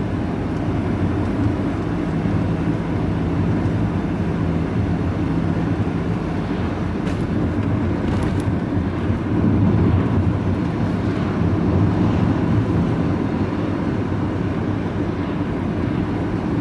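Engine and road noise inside a vehicle's cab while cruising on an open road: a steady low engine hum over tyre noise, getting a little louder about ten seconds in.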